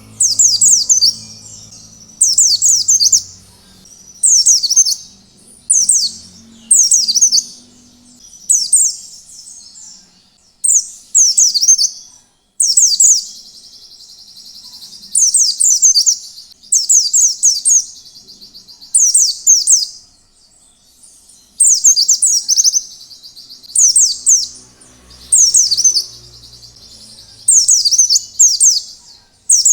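White-eye (pleci) singing in the 'ngalas' style: short, loud, high-pitched phrases of fast falling notes, repeated every second or two, some running on into a longer trill.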